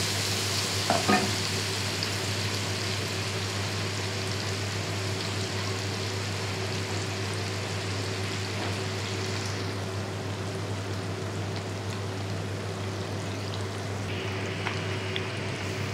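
Chicken pieces sizzling steadily in oil and sauce in a wok, stirred with a wooden spatula at first.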